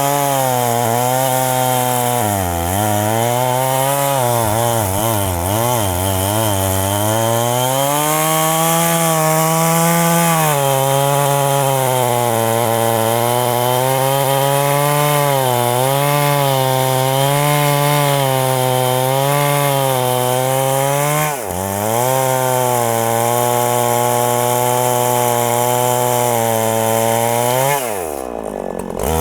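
Chainsaw cutting into a very large tree trunk at high revs, its engine pitch repeatedly sagging and recovering as it bogs under the heavy load. About two-thirds of the way through it dips sharply for a moment, and near the end the pitch falls steeply before picking back up.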